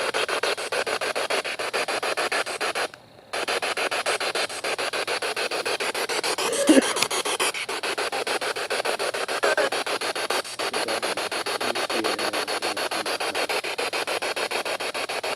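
P-SB7 spirit box sweeping through radio stations: a rapid, choppy stream of static broken into quick regular pulses, with brief snatches of radio sound. It cuts out for a moment about three seconds in.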